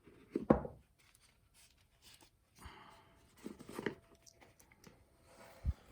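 Rustling and handling knocks as a wristwatch is lifted out of its box and packaging. A bump about half a second in is the loudest; rustling and small clicks follow a couple of seconds later, and there is another low knock near the end.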